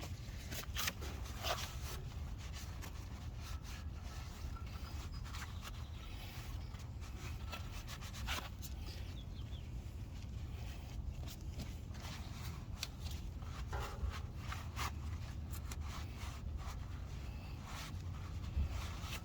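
A rag wiping grease and brake cleaner off a trailer axle spindle: irregular rubbing strokes over a steady low background rumble.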